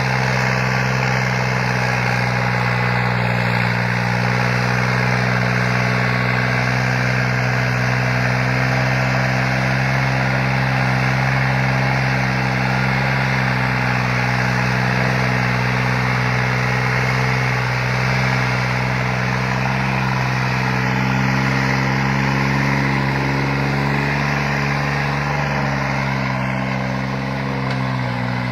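New Holland tractor's diesel engine running steadily, its note dipping slightly near the end.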